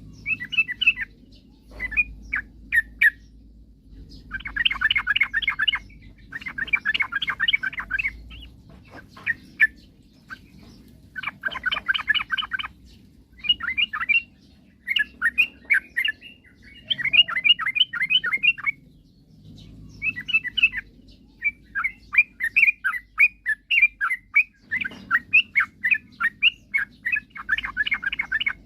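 Yellow-vented bulbul (trucukan) singing: bursts of rapid, bubbling chirps separated by short pauses, the phrases coming almost without a break near the end.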